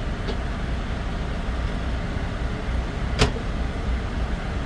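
Steady low rumble of a truck on the road, heard from inside the cab, with one sharp click about three seconds in.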